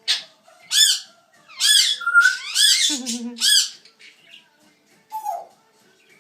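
Pet parrot squawking loudly: a quick run of calls in the first four seconds, each rising and falling in pitch, then one lower call about five seconds in.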